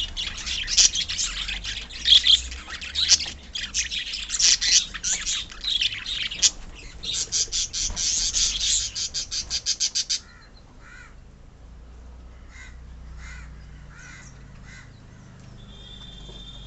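A colony of small pet parrots chattering and screeching densely, a rapid run of shrill calls; the chorus cuts off abruptly about ten seconds in, leaving only a few scattered chirps.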